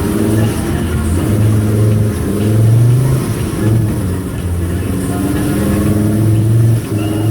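VW Golf II Country 4x4's engine running under load, its revs rising and falling again and again.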